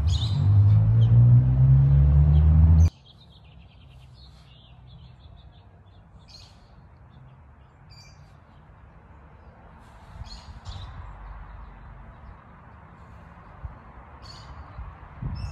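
Small birds chirping now and then over a steady outdoor background. A loud low rumble fills the first three seconds and cuts off suddenly.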